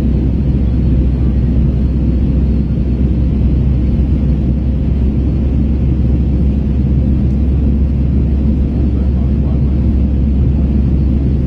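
Steady low rumble of an Airbus A321's jet engines and airflow, heard inside the passenger cabin as the airliner climbs away after a go-around.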